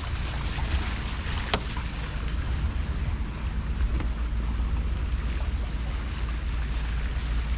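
Lagoon 52 catamaran motoring slowly: a steady low engine rumble under an even hiss of wind and water, with one short click about one and a half seconds in.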